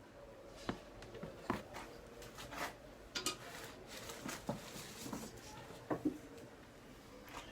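Scattered light clicks and metallic knocks as welding cables and clamps are handled and connected to an inverter welding machine, a pair of quick knocks about three seconds in and another about six seconds in.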